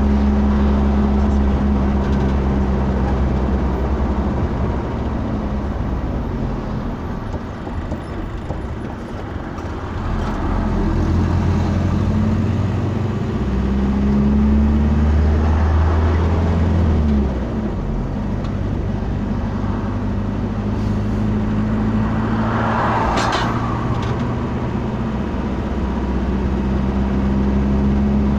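Motor vehicle engine running, a steady low hum that shifts in pitch a few times as the speed changes. A brief hissing noise sounds about three-quarters of the way through.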